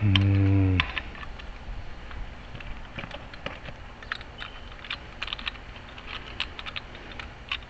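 A brief steady low hum about a second long at the start, then light, irregular clicks and taps of small door-lock hardware and tools being handled.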